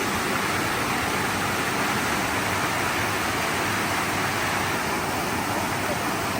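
Steady, loud rush of falling water from a rainforest waterfall or river.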